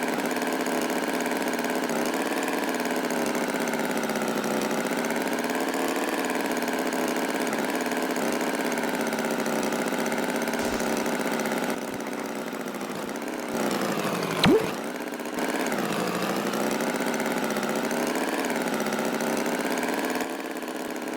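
Tractor engine running steadily, its pitch wavering slightly up and down, with a brief sliding squeak about fourteen seconds in.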